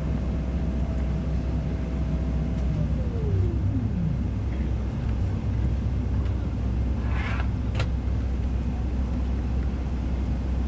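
Steady low rumble inside the cabin of a Boeing 777-300ER airliner. A steady whine slides down in pitch and fades about three seconds in. A short rustle and a click come a little past the middle.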